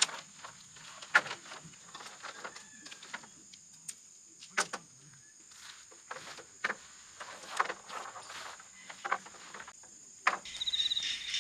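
Scattered irregular clicks and knocks of tent poles and fittings being handled and fitted together while pitching a dome tent.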